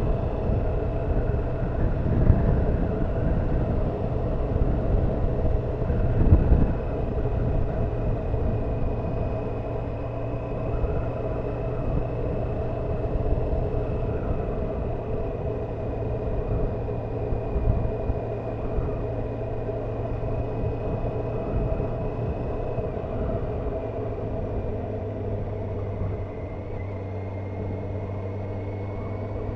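Honda CBF motorcycle engine running steadily under way, with low wind rumble on the helmet camera's microphone and a brief louder rumble about six seconds in.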